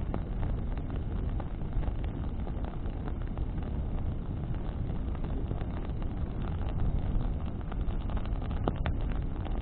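Bonfire burning in the wind: burning branches crackling, with scattered sharp pops and a couple of louder ones near the end, over a steady low rumble of wind on the microphone.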